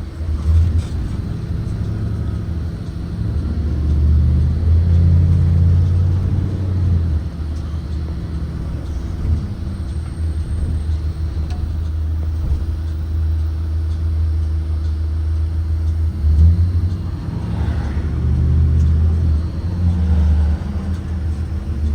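2023 Blue Bird Vision propane school bus on the move: a deep engine and road rumble that swells and eases several times, under a steady hum.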